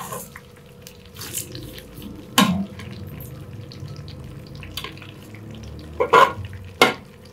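Broken vermicelli frying in hot oil in a pan with a low sizzle, while a spoon stirs it, scraping and knocking against the pan a few times, most sharply about two seconds in and twice near the end.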